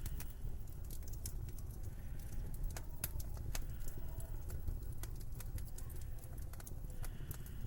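Wood fire crackling in a fireplace: irregular sharp pops and snaps over a steady low rumble, with a faint wind moaning now and then.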